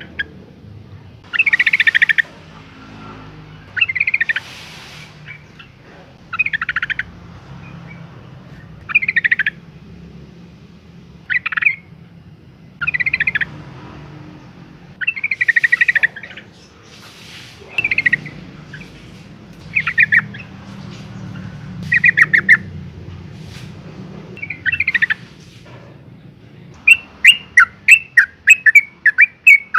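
Female yellow-vented bulbul calling: short, chattering phrases about every two seconds, turning near the end into a fast run of quick repeated notes. It is the female's call that draws males to answer. A faint low hum runs underneath.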